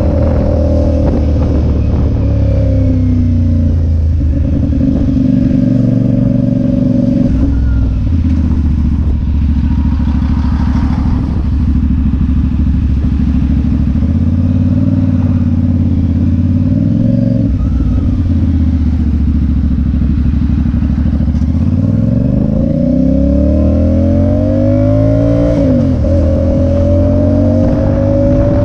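Motorcycle engine running under way. It holds a steady pitch at first, dips a couple of times, then revs up through the gears in the second half, dropping at each shift and climbing again.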